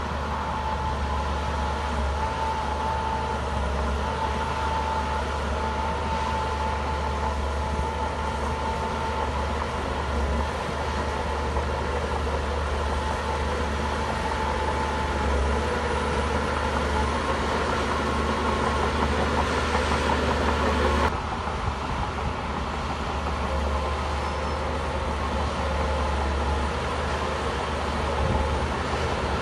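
Shantui bulldozer's diesel engine running steadily under load, a deep hum with a wavering whine on top.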